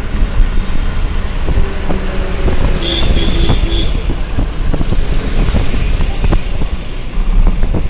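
Road traffic noise with wind buffeting the microphone. About three seconds in, a pitched tone pulses briefly three or four times.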